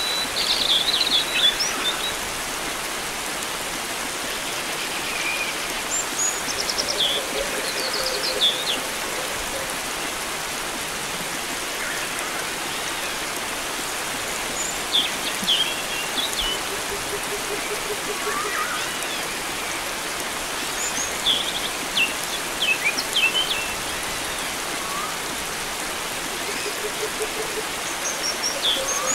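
Flowing water making a steady hiss, with wild birds chirping and trilling in short phrases every few seconds. A low pulsing trill comes in a few times.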